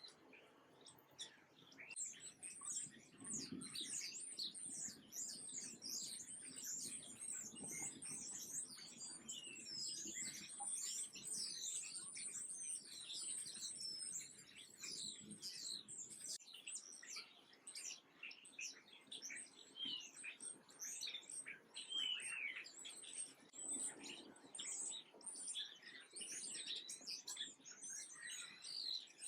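Small birds chirping and twittering, many short high calls overlapping in a dense chatter that starts about two seconds in and keeps going.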